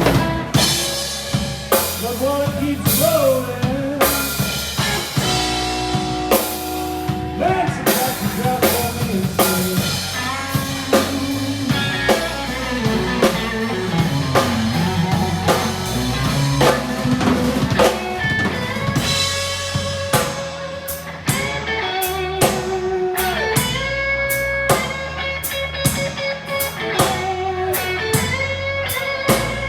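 Live electric blues band playing a slow blues: lead electric guitar with bent notes over drum kit and bass. The drumming gets busier about two-thirds of the way through.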